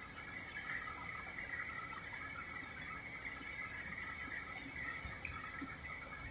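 Steady insect chorus, a continuous high chirring at several pitches.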